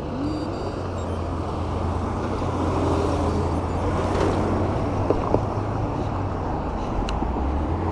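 Road traffic: cars and trucks running close by, a steady low hum with a few faint clicks.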